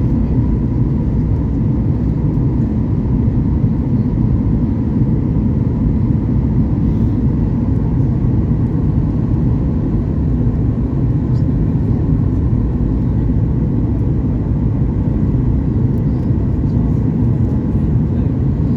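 Steady, loud jet cabin noise inside a Boeing 737 MAX 8-200: a low, even rumble of its CFM LEAP-1B engines and the airflow, with a faint steady tone above it.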